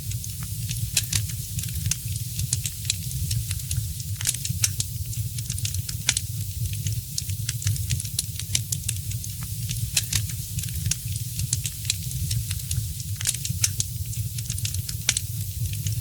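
Wood fire in a fireplace crackling, with frequent irregular sharp pops over a steady hiss and a low rumble.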